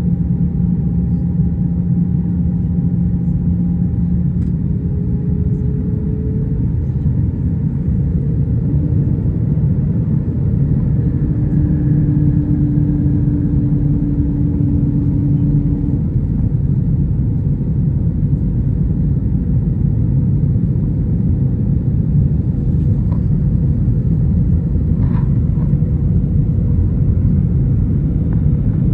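Airbus A320 cabin noise from a window seat: a steady low rumble of engines and airflow, with faint engine tones that shift pitch a few times.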